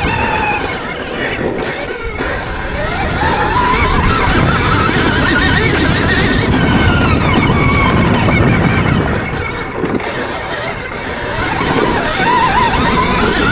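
Stark Varg Gen 2 electric motocross bike's motor whining, its pitch rising and falling repeatedly with the throttle, over a dense rushing noise. The sound eases off briefly twice, about a second in and again near ten seconds.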